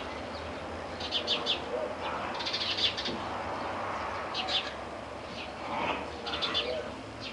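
Birds chirping in short bursts of rapid high chirps, a new burst every second or two.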